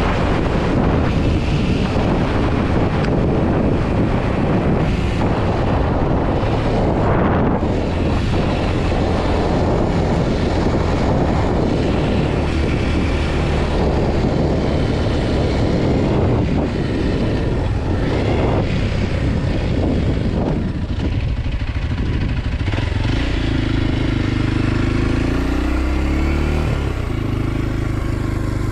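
Kawasaki KLX 230 SM's single-cylinder four-stroke engine running while the bike is ridden, under heavy wind noise on the microphone. In the last few seconds the engine note rises and falls with the throttle.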